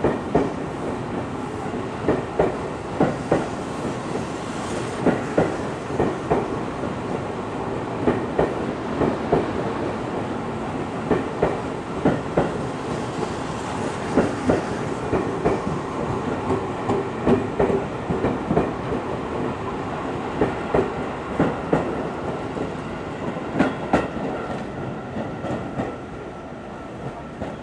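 Seibu 6000 series electric commuter train moving along the station platform, its wheels clicking over the rail joints in repeated clickety-clack pairs over a steady rumble. The sound falls away near the end.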